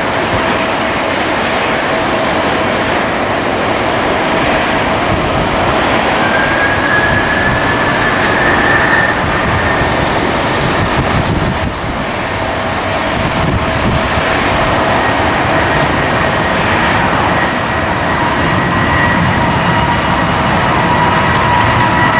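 Jet airliner engines running with a steady roar and a high whine that rises about six seconds in, then holds, with more whining tones joining near the end.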